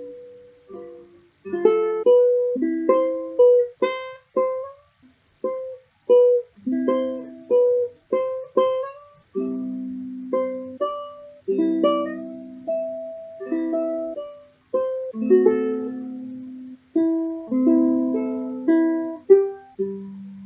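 Solo fingerstyle ukulele: a picked melody over plucked chords, phrase by phrase with short pauses between.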